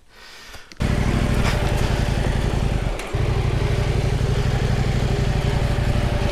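Husqvarna Norden 901 parallel-twin motorcycle engine running at steady revs. It cuts in abruptly about a second in and dips briefly around three seconds before carrying on.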